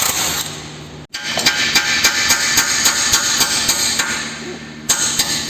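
Steel hammer rapidly striking the end of a Chevy Malibu's front CV axle shaft, about four metal-on-metal blows a second, driving the shaft out of the wheel hub where its knurled splines are stuck. There is a brief break about a second in.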